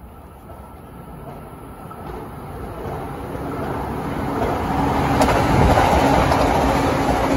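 Electric commuter train approaching at about 100 km/h and passing close by: wheel-on-rail and rushing air noise growing steadily louder, loudest from about five seconds in, with a steady low hum and one sharp click.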